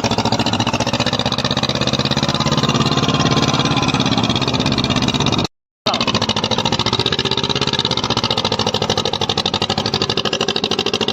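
Swaraj tractor's diesel engine running steadily, its firing pulses rapid and even; the sound cuts out completely for about half a second midway.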